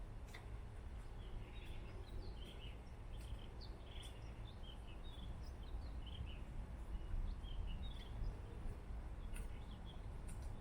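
Small birds chirping in many short notes over a steady low rumble, with a few scattered clicks.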